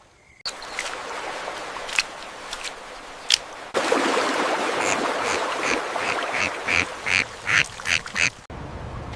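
Animal calls: a bird calling in a quick run of short, repeated calls that come closer together near the end, over a steady noisy background.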